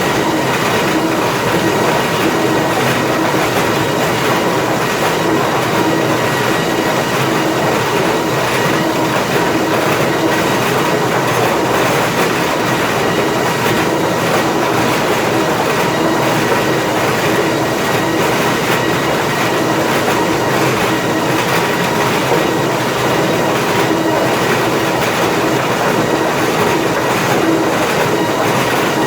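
Planer mill infeed machinery running: lumber conveyor chains and boards rattling and clattering in a steady, loud din, with a few steady tones running through it.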